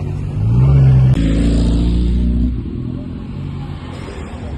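A car engine revving: its pitch climbs about half a second in, is loudest around a second in, then holds and falls away after about two and a half seconds.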